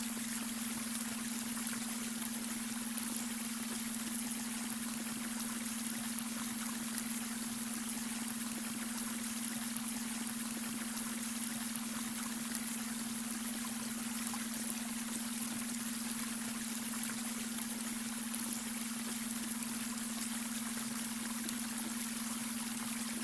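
Babbling brook water flowing and trickling steadily, with a steady low tone underneath: the beta-wave brainwave tone laid over the stream.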